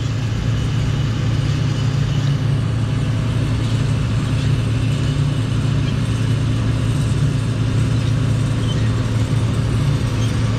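Large diesel farm-machine engine running at a steady speed, a constant low drone that does not change.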